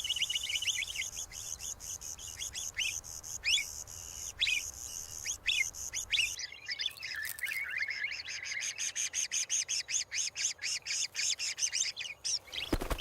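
Small birds chirping rapidly, a dense run of short high chirps several per second, with a brief louder noise near the end.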